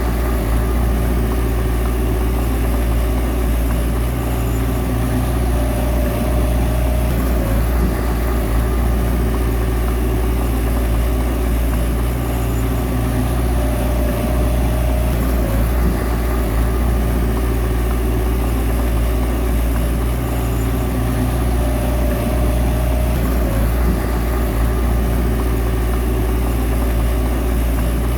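Bulldozer's diesel engine running steadily, a deep continuous drone with no pauses.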